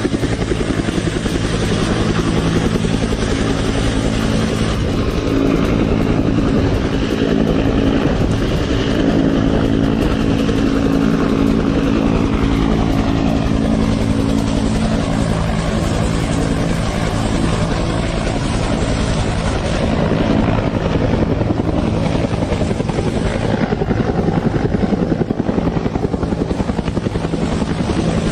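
Helicopter running close by: steady, loud rotor chop over its turbine engine, with a higher whine that slides down in pitch about a third of the way through.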